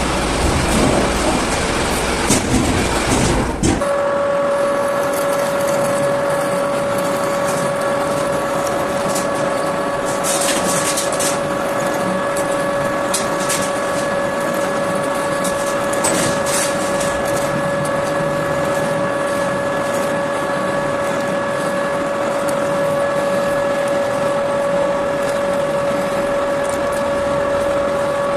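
Metal lathe running with a steady high whine. A heavier rumbling noise cuts off about four seconds in, leaving the whine, with a few light clicks from the cutting.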